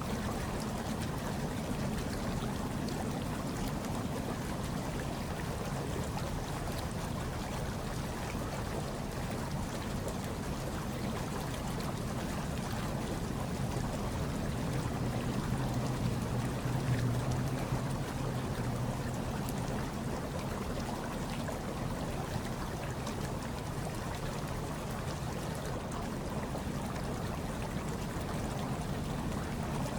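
Hot tub water churning and bubbling steadily, with a low hum underneath that swells slightly about halfway through.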